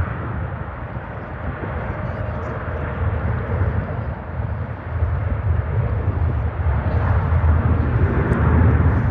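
Jet airliner engine noise: a steady low rumble that grows louder over the last few seconds.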